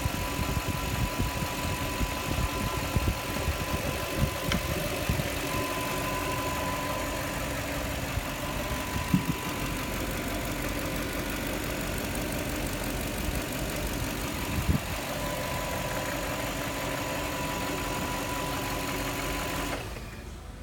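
Toyota Land Cruiser 100 series 4.7-litre 2UZ-FE V8 idling steadily after start-up, with two brief knocks partway through. The sound cuts off suddenly near the end.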